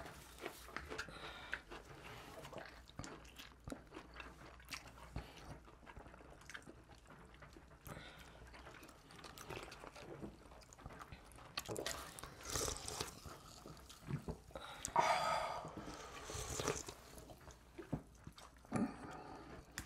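People chewing and biting into slices of thin, crisp-baked pizza, with many small crackles and clicks and a few louder sounds between about twelve and seventeen seconds in.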